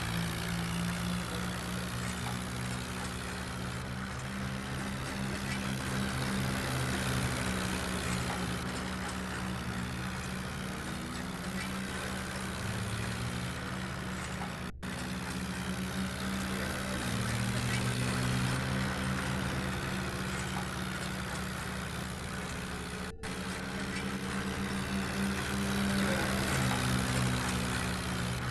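Swaraj 855 tractor's three-cylinder diesel engine running steadily at work, its pitch shifting slightly up and down; the sound cuts out for an instant twice.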